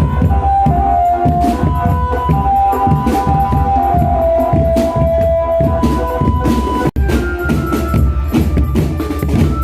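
A drum band playing: dense beating of drums and percussion under a sustained melody line of long held notes. The sound drops out for an instant about seven seconds in, then the band carries on.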